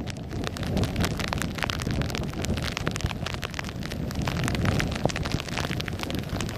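Heavy thunderstorm rain, with many drops ticking sharply close to the microphone over a steady low rumble.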